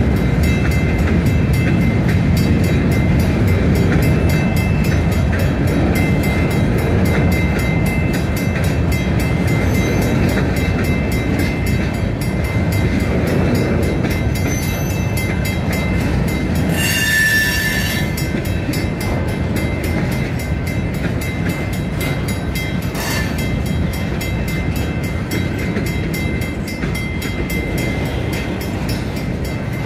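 CN freight train rolling past: a steady low rumble of wheels on rail with faint high wheel squeal, easing slightly toward the end. About seventeen seconds in there is a brief, louder high-pitched squeal.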